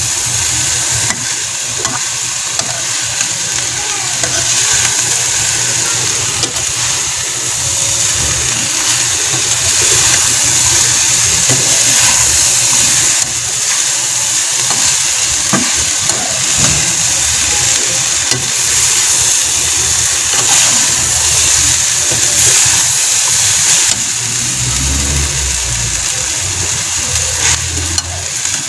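Ground pork with diced potatoes and carrots sizzling in a pan on a gas burner: a steady, loud frying hiss, with a few light scrapes and ticks of a metal spatula. A low hum runs underneath and grows louder near the end.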